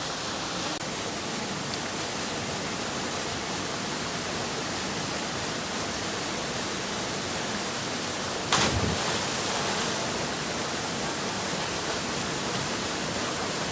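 Steady rush of a waterfall, with one brief thump about eight and a half seconds in.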